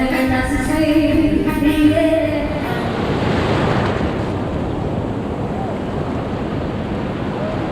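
Background music that stops about two and a half seconds in, giving way to the steady wash of ocean surf breaking on a beach.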